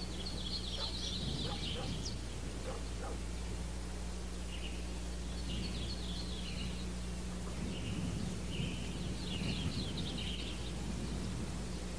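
Birds chirping in quick twittering bouts every few seconds, over a steady low hum.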